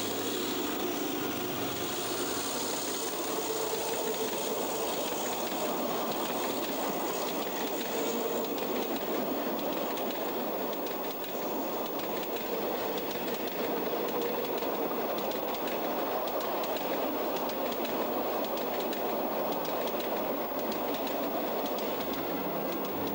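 Metre-gauge freight train of hopper wagons running along the track: a steady rolling noise of wheels on rail with faint, frequent clicks.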